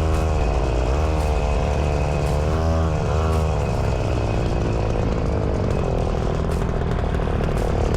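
Semi truck's diesel engine running while driving, heard inside the cab as a steady low rumble; its pitch rises and falls briefly three times in the first few seconds, then holds steady.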